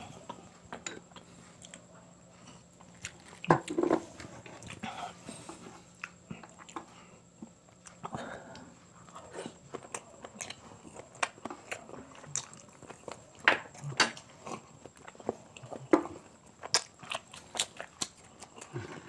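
A person chewing and biting quail balut, with wet mouth clicks and smacks coming in scattered clusters. The loudest clusters come about a third of the way in and again in the last third.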